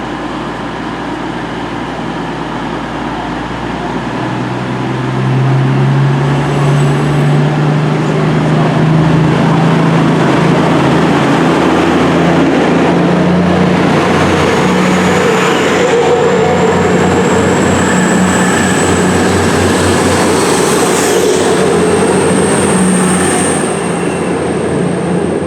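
Five-coach East Midlands Railway diesel multiple unit pulling out of the platform, its engines getting louder about four seconds in and rising slowly in pitch as the train accelerates away. A thin high whine climbs steadily in the second half.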